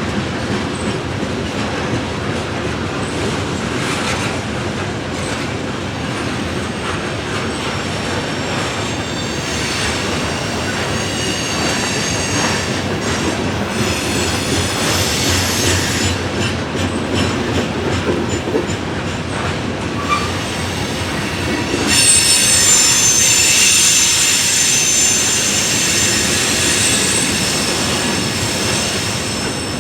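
Freight train cars rolling past on the rails with clicking over the rail, and a high-pitched squeal of steel wheels on the rail that starts about ten seconds in and is loudest from about twenty-two seconds on.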